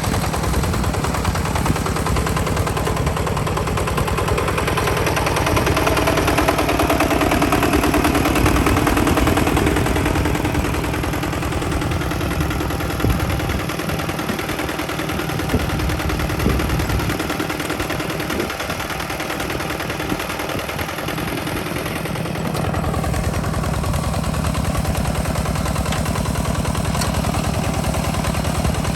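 Walking tractor's engine running with a rapid, even train of firing pulses, louder and steadier in pitch about five to ten seconds in.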